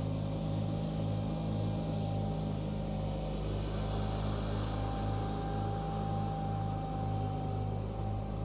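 John Deere 318 garden tractor's air-cooled two-cylinder Onan engine running steadily under load with the mower deck engaged, mulching leaves, with a steady thin whine above the engine note.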